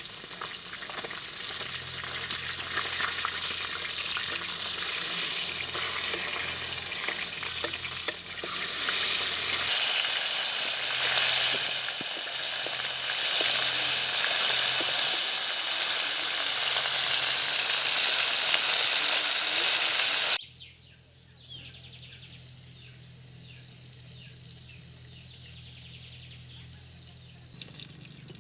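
Food frying in hot oil in a pan: a steady sizzle that grows louder about eight seconds in. It cuts off suddenly about twenty seconds in, leaving a much quieter sound.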